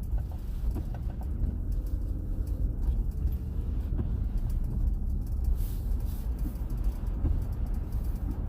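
Steady low rumble of a car on the move, with road and engine noise carrying no speech.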